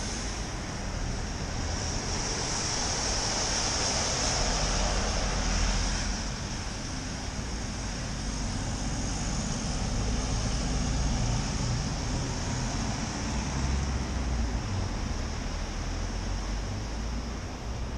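Wet city street noise heard from a moving bicycle: a steady hiss of tyres and rain on wet pavement, traffic passing and swelling louder from about two to six seconds in, with low wind rumble on the microphone.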